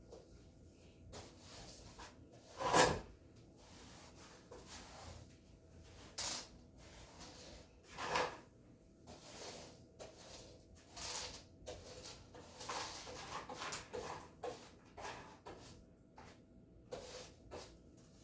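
Floor being swept: irregular brushing and scraping strokes, with one louder knock about three seconds in.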